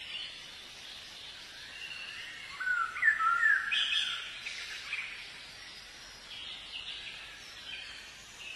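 Birds chirping and calling, with a cluster of short sliding whistled notes about three seconds in that are the loudest, over a faint steady outdoor hiss.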